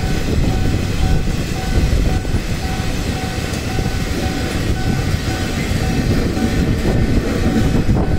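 Loaded C80B coal wagons of a heavy-haul freight train rolling past: a loud, steady rumble of steel wheels on rail, with a faint whine that comes and goes in short pulses.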